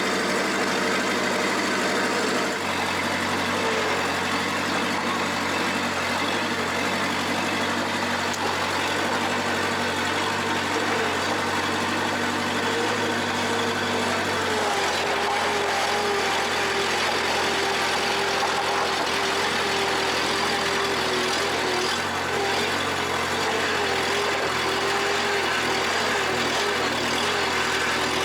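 Bobcat 773 skid steer's diesel engine running steadily while the machine is driven. Its pitch shifts twice, about two and a half seconds in and again about fifteen seconds in, and wavers slightly after that.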